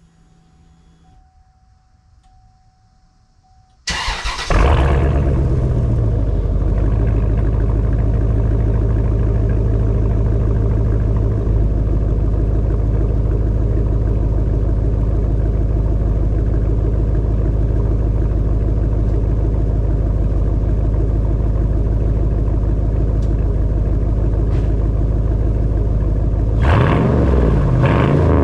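Chevrolet Suburban's 8.1-litre V8 starting about four seconds in, then idling steadily through a muffler-delete exhaust: straight pipes after the catalytic converters. Near the end the engine is revved briefly.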